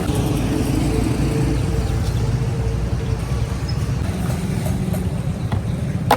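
Steady low rumble of street traffic, with a single sharp knock near the end.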